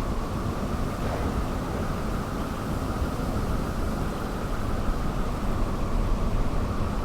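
Steady rumble of a vehicle on the move: road and wind noise, with no distinct events.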